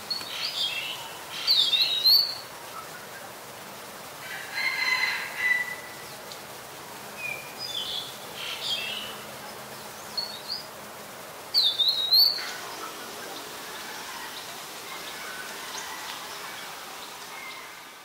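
Wild birds calling in scattered bursts of short, sharp whistled notes over a steady background hiss. The loudest bursts come about a second and a half in and again about twelve seconds in.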